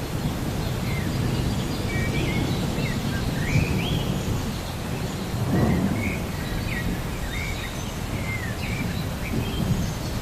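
Thunderstorm ambience: a steady low rumble of thunder under rain, swelling twice. Birds chirp all through with short, quick rising calls.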